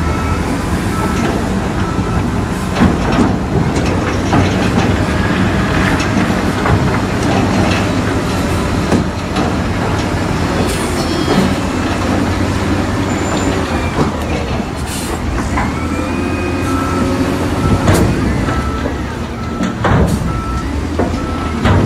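Crawler bulldozer working: the diesel engine runs steadily under load while the steel tracks clank and squeal. A reversing alarm beeps in short repeated pulses at the start and again near the end.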